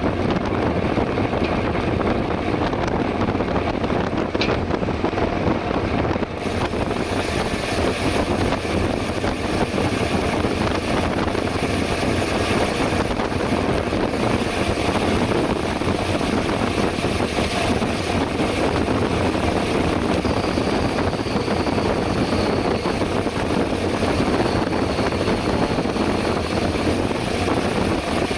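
Steady rushing wind buffeting the microphone of a camera riding along on a bicycle at speed, mixed with road and tyre noise.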